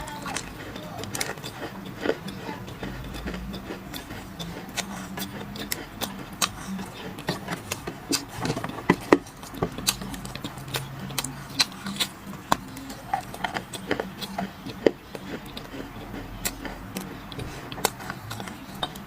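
Dry clay being crunched and crumbled: a dense run of sharp, irregular cracks and crackles, with a few louder snaps about nine and fifteen seconds in.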